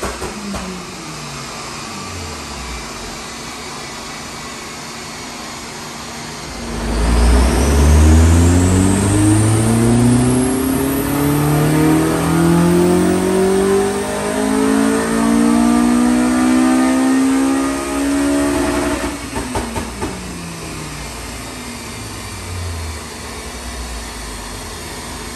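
Honda Civic FN2 Type R's K20 2.0-litre four-cylinder engine on a rolling road dyno. It winds down and runs at a steady low speed; then, about 7 seconds in, a full-throttle power run starts and it revs steadily higher for about 12 seconds, with a high whine rising alongside. Near 19 seconds the throttle is lifted and the revs fall away as the rollers coast down.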